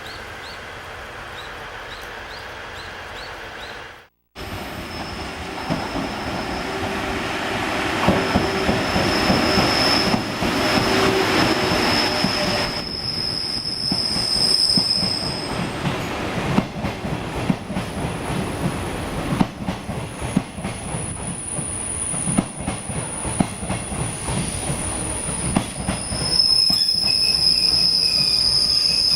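Akebono sleeper train's carriages running on the rails, with long high-pitched wheel squeal and irregular clicks and knocks from the track. A quieter steady hum comes first and cuts off about four seconds in.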